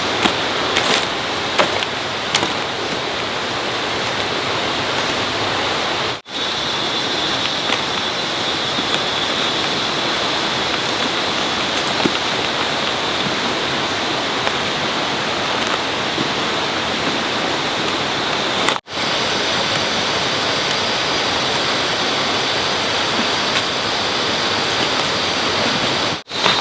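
Steady, loud rushing noise of water, with a thin high whine in it from about a quarter of the way in. It cuts out abruptly for an instant twice.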